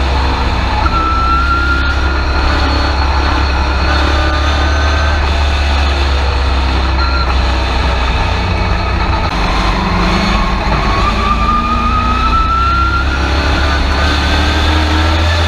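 Race truck engine running steadily, heard from inside the cab as a loud low drone. A faint whine rises in pitch about ten seconds in.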